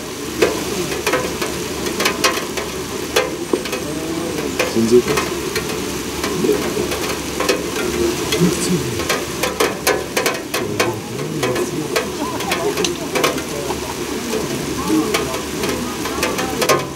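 Heavy rain falling, with a dense patter of sharp ticks as drops strike close to the microphone.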